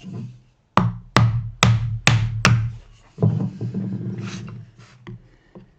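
Chisel being struck with a mallet: five sharp, evenly spaced blows in quick succession, then one more after a short pause, each with a brief woody ring, as the chisel is driven into the dovetail waste.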